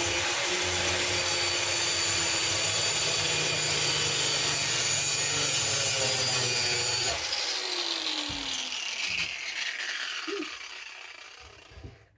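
Electric grinder cutting into the steel of an ice auger drill bit clamped in a vise, a steady loud grind. About seven seconds in the grinder is switched off and its whine falls in pitch as the disc spins down.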